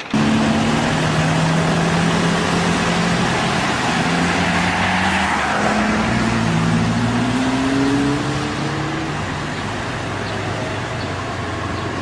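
Car engine running under road noise, its pitch rising steadily from about halfway through as the car speeds up, with a rush of noise around the middle.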